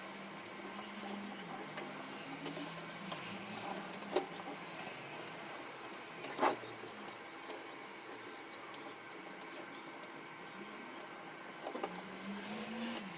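Canon MF4018 laser printer's mechanism running: a low, wavering motor hum with a few sharp clicks.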